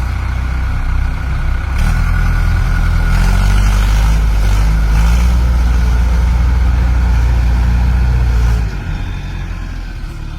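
Tractor engine revving hard under load, as when pulling a vehicle stuck in mud. It climbs in pitch about two seconds in and holds there, then drops back near the end.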